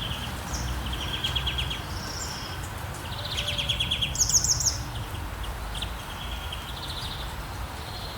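Several small songbirds chirping and calling back and forth, with rapid trills about a second in and a louder one from about three to four and a half seconds in, over a steady low rumble and a faint even hiss.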